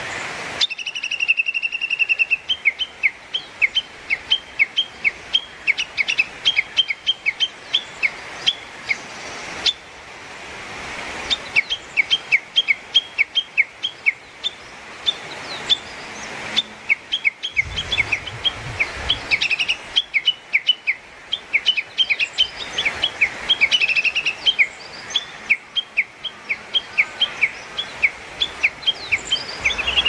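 A songbird singing a long run of rapid, high chirping notes, several a second, broken by short pauses about ten and seventeen seconds in.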